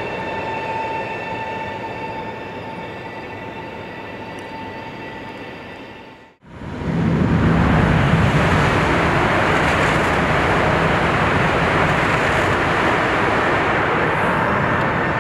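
CRH380 high-speed train running: a steady whine of several held tones over a rushing noise, slowly easing off. About six seconds in the sound breaks off abruptly. It comes back as a louder, even rush with a low hum.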